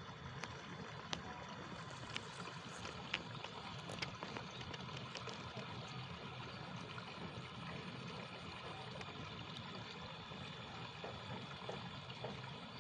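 Faint trickling of water in a rice paddy with scattered soft clicks and pops, which the angler takes for a fish or an eel moving in the water.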